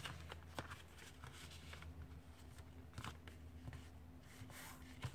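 Faint rustling and light crackles of a sheet of paper being folded in half and its crease pressed down, in scattered soft clicks.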